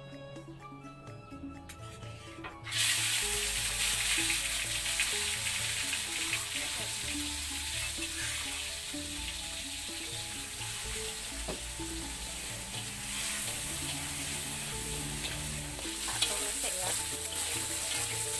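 Ground spice paste with sliced tomato and lime leaves tipped into hot oil in a wok, the sizzling starting suddenly about three seconds in. It then fries steadily while it is stirred with a spatula.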